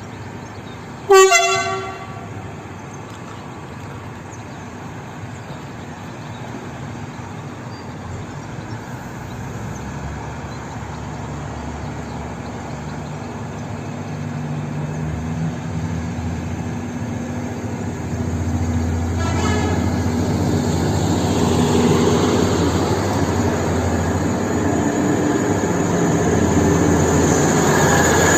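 Locomotive MT-15429 gives one short horn toot about a second in. Its running rumble follows, growing steadily louder as it approaches.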